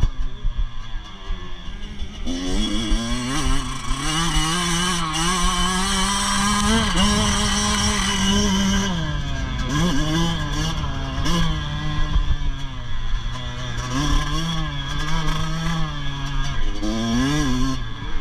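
Motocross dirt bike engines revving hard on the track. The pitch climbs for several seconds, drops, then rises and falls again and again as riders accelerate and back off.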